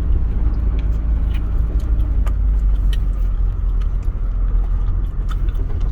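Camper van driving slowly, heard from inside the cabin: a steady low engine and road rumble with scattered light rattling clicks.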